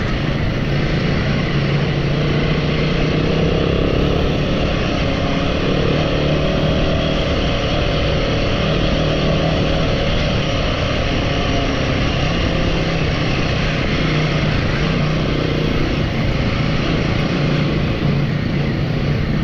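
Royal Enfield motorcycle under way off-road: the engine runs steadily as one continuous hum, with an even rush of noise over it.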